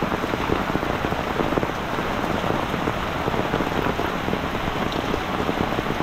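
Heavy tropical rain falling steadily, a dense patter of drops hitting the ground and puddles.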